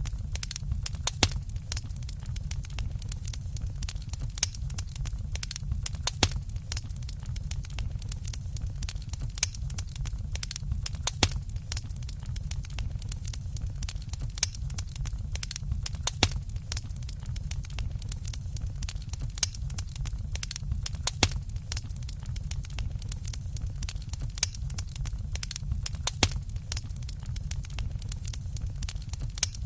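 Wood fire crackling with a constant low rumble, dense small snaps and a louder pop about every five seconds.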